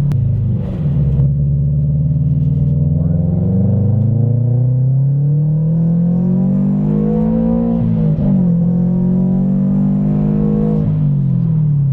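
Supercharged Subaru BRZ's flat-four engine under hard acceleration. The engine note drops briefly at the start, climbs steadily for several seconds, falls back at an upshift about eight seconds in, holds level, then falls away near the end.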